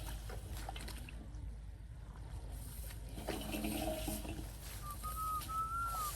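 Water splashing and trickling in a shallow flooded rice field as fish are caught by hand, with a thin steady whistle near the end.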